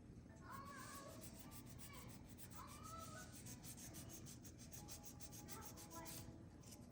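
Faint, rapid rubbing strokes on a small part, about six a second, stopping about six seconds in.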